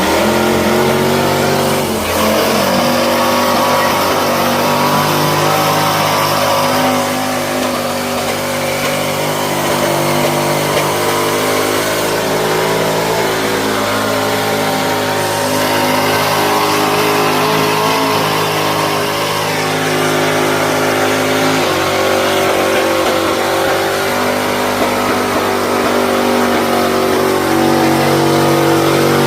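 Mud-truck engines, a Duramax diesel and a big-block V8, held at high revs for a long stretch. The pitch shifts about two seconds in and again about twenty-two seconds in.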